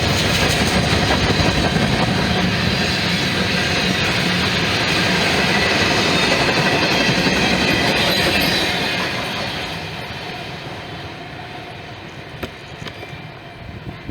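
Norfolk Southern freight train rolling past, the steady rumble and rattle of its cars' wheels on the rails. The sound fades away from about nine seconds in as the train moves off.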